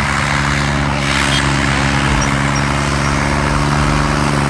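Tractor diesel engine running loudly at a steady pitch.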